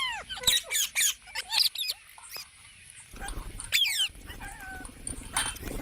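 Parrots giving a rapid series of short squawks that drop sharply in pitch, then a quieter spell and another pair of squawks about four seconds in.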